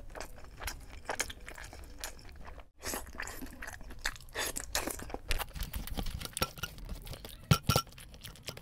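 Close-miked chewing of a mouthful of chicken biryani, with wet mouth noises and many sharp clicks; the loudest pair of clicks comes near the end.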